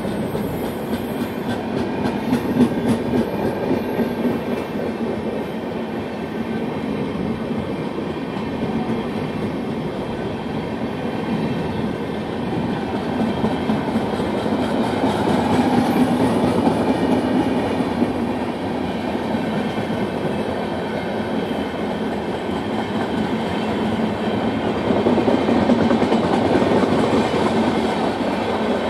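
Parcel vans of a long passenger-stock train rolling past at speed: a steady rumble of wheels on rail with rapid clickety-clack. It swells around the middle and again near the end.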